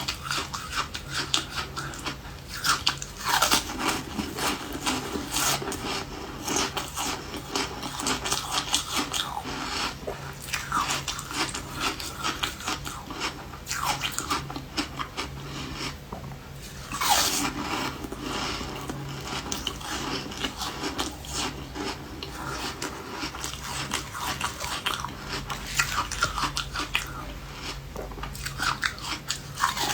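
Refrozen ice being bitten and chewed close to the microphone: a dense run of crackling crunches, with one sharper, louder bite about seventeen seconds in.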